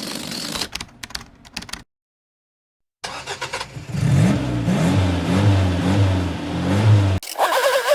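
A noisy crackling sound dies away in the first two seconds. After a short silence a car engine cranks, starts and is revved about four times, each rev rising and falling in pitch, then cuts off abruptly. Near the end a higher-pitched revving whine begins.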